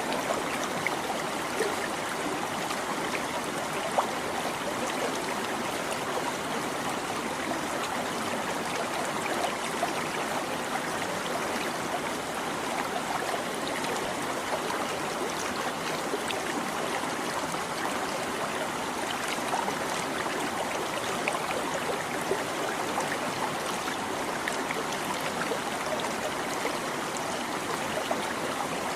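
A shallow stream babbling steadily over stones, with an even rush of water and small splashes.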